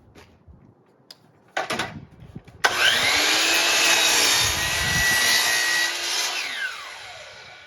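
Power saw starting up about two and a half seconds in and cutting a plywood board for a few seconds, then winding down with a falling whine near the end. A few knocks of the board being handled come before it.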